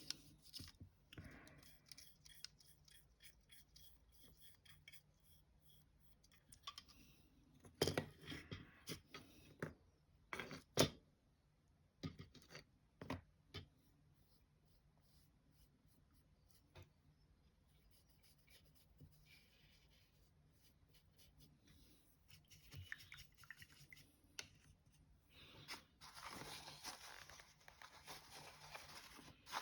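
Faint handling sounds of small craft work on a desk: scattered small knocks and clicks, and a few seconds of rubbing or scratching near the end.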